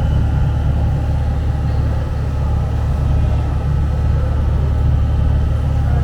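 Paris Métro MP 05 rubber-tyred train running along the track: a steady low rumble with faint steady tones above it.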